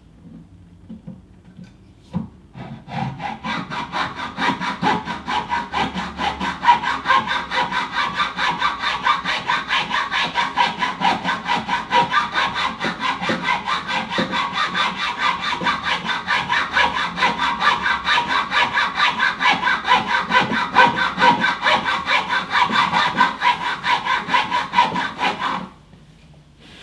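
Small hand saw cutting into the wood of an old oud with rapid, even back-and-forth strokes, widening a slot in the wood. It starts a couple of seconds in, runs steadily, and stops about a second before the end.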